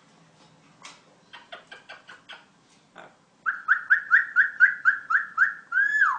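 Talking bird clicking a few times, then giving a fast run of about ten short, loud whistled notes, roughly four a second, ending in one longer note that drops in pitch, like a mimicked alarm.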